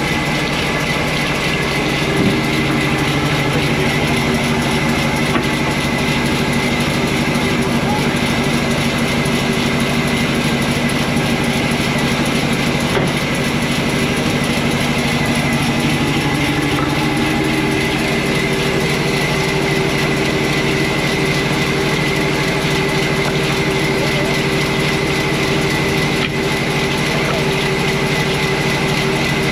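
Sawmill machinery running steadily, a continuous mechanical hum and clatter; its tones shift upward about halfway through.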